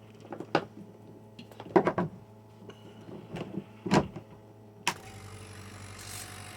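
A few short knocks and clicks, then about five seconds in a click and a steady hiss of air starts: the old fifth-horsepower refrigerator-compressor air compressor switched on and blowing air, over a low steady hum.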